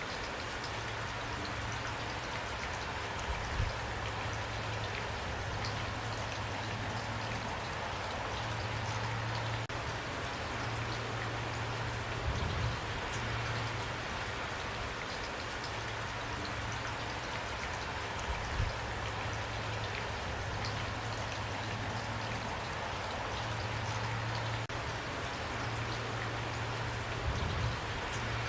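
Steady rain falling, an even hiss of many drops, with a few brief low thuds scattered through it.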